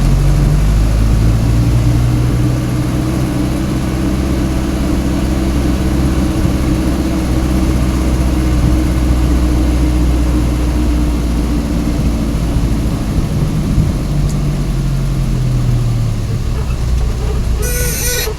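Truck engine running steadily at a low, even pitch that sags a little and then climbs again. Near the end it gives way to a noisy hiss.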